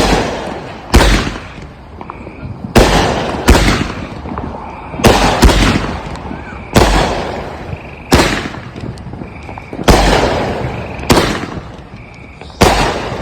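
Consumer aerial fireworks going off shot after shot, a sharp bang roughly every second or second and a half, each trailing off in a rolling echo.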